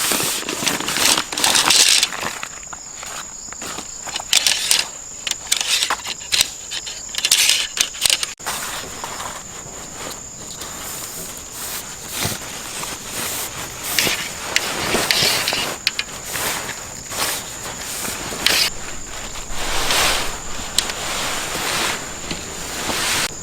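Field insects, crickets or similar, chirring in a steady high-pitched drone. Irregular rustles, clicks and scrapes from nearby handling or footsteps come over it, busiest in the first half.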